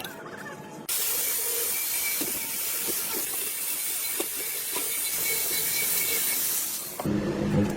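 A steady spraying hiss starts suddenly about a second in and cuts off near the end, where a short hum takes over.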